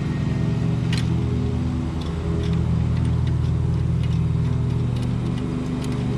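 An engine running steadily at an even speed, with a few faint clicks, one sharper about a second in.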